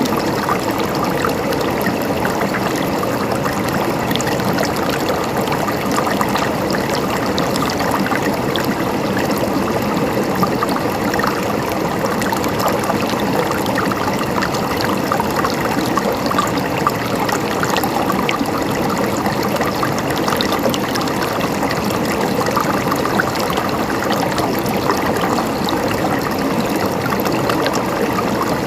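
Running water of a stream flowing steadily: an even rush with fine trickling and gurgling.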